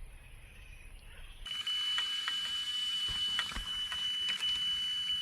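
Electronic carp bite alarm sounding a continuous high tone, switching on about a second and a half in, the sign of a run: a fish taking line. Scattered clicks sound over it.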